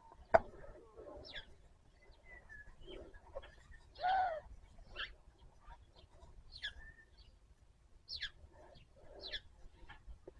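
Birds chirping repeatedly in short high calls, with a single short animal call about four seconds in and a sharp click about half a second in.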